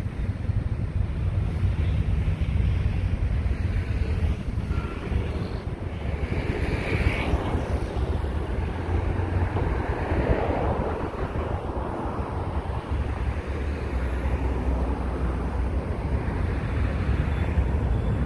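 Steady rumble of traffic on a busy city avenue, with wind on the microphone.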